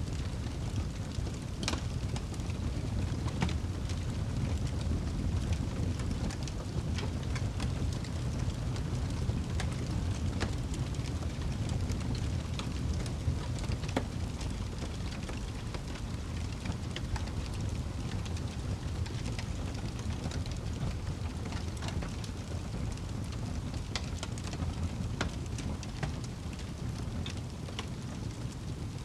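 Fireplace fire crackling, with sparse irregular pops over a steady low rumble.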